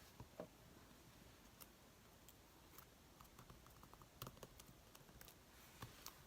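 Near silence with faint, scattered clicks and light taps of paper cutouts being handled on a craft table.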